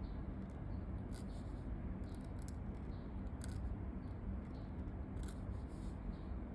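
Pen nib scratching across paper in short, irregular strokes, over a steady low background hum.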